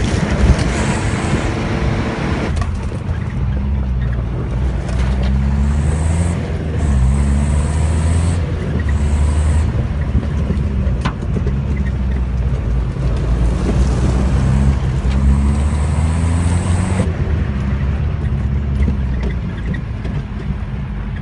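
Nissan Terrano's diesel engine pulling under load, heard from inside the cab while driving on a dirt track; the engine note climbs in pitch several times as it accelerates.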